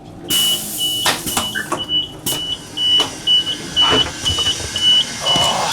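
A high electronic beep repeating about twice a second, with scattered knocks and clatter.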